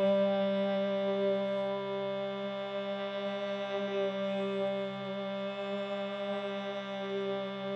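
Musical drone: one low pitch held steadily with many overtones, unbroken throughout.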